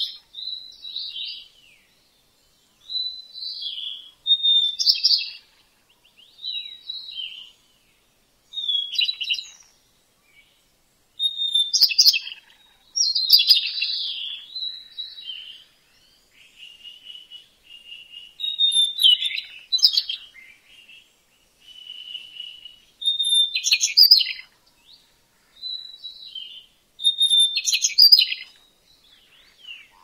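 Birds singing in short, separate chirping phrases, about a dozen of them, with brief silences in between.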